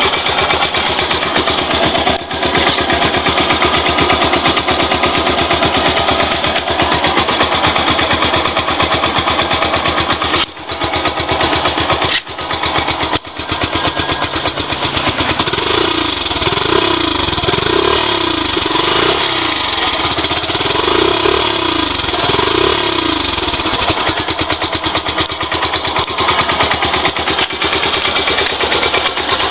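Yamaha SZ-R's single-cylinder four-stroke engine running steadily. Around the middle it goes through a run of about seven short rises and falls in pitch, roughly one a second.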